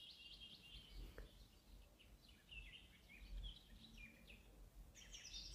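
Near silence, with faint small birds chirping in the background as a run of quick, short, high chirps that grow a little stronger near the end. There is one faint tap about a second in.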